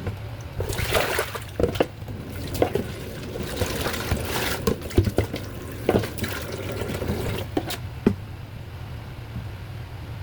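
Water pouring and splashing, with small knocks and clatters, from about a second in until about eight seconds in, over a steady low hum.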